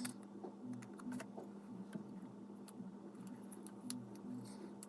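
Faint scattered clicks and taps of small plastic Lego pieces being handled, over a low steady hum.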